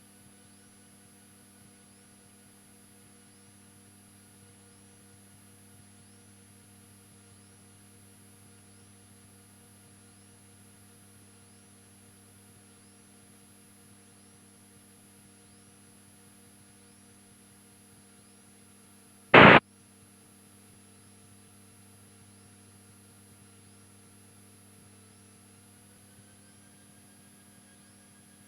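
Steady faint electrical hum with a few thin whining tones in an aircraft radio and intercom audio feed, broken once about two-thirds of the way through by a short, loud burst of noise.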